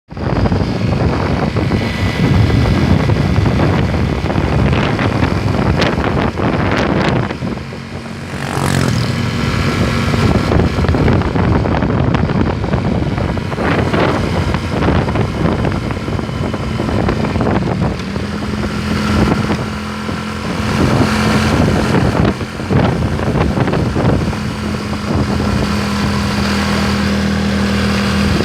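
Motor vehicle running on the road, with a steady engine note, road and wind noise, and other vehicles passing now and then.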